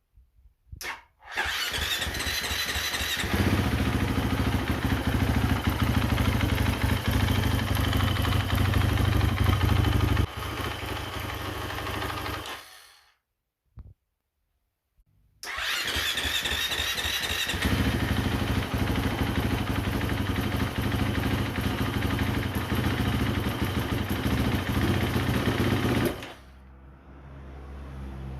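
KTM 350 Freeride's single-cylinder four-stroke engine is started and runs for about eleven seconds, then cuts out. After a short silence it is started again, runs for about ten seconds, and drops much quieter near the end. This is a bike with a starting and idling fault: it will not hold a steady idle and dies shortly after starting.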